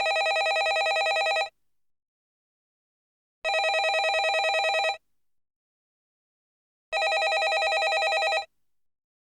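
Landline telephone bell ringing: three rings about a second and a half long, one every three and a half seconds, each a fast trill.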